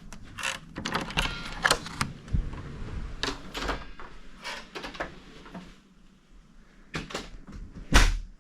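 A run of short clicks and knocks, as from a hotel-room door and handling of things in a small room, with a quieter spell about six seconds in and the loudest knock near the end.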